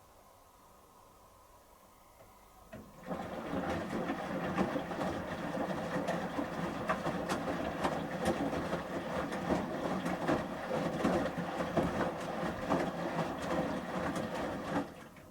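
Samsung Series 5+ front-loading washing machine's drum turning in the wash phase, the shirts and water tumbling inside with many irregular clicks and knocks. The tumble starts about three seconds in and stops shortly before the end, as the drum pauses between turns.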